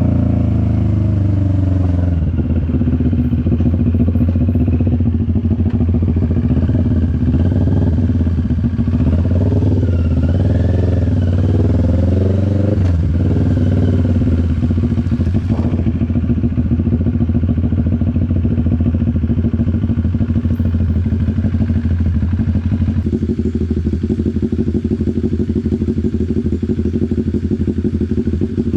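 CFMoto 400NK's parallel-twin engine running under way: its pitch drops over the first couple of seconds as revs fall, then it holds fairly steady revs with small rises and falls.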